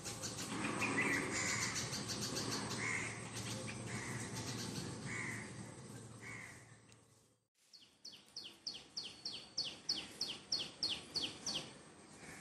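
Birds calling: a call repeated about once a second over a steady background hum, then, after a brief drop-out just past the middle, a rapid run of short high chirps, about three or four a second.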